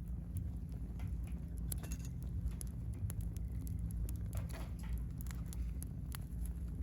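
Wood fire crackling in a compact round steel fire pit, with scattered irregular pops over a steady low rumble and a brief hiss about four and a half seconds in.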